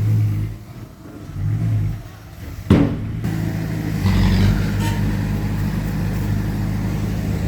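Heavy diesel machinery engine working, its note rising and falling during the first two seconds. A sharp knock comes a little under three seconds in, and from about four seconds the engine runs steadily and louder.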